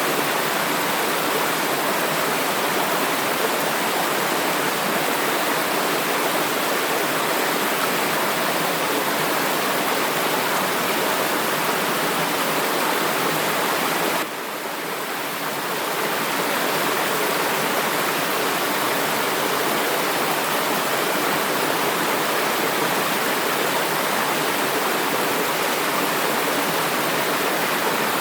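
Steady rushing of flowing water, like a forest stream. About halfway through it drops suddenly in level, then builds back over a couple of seconds.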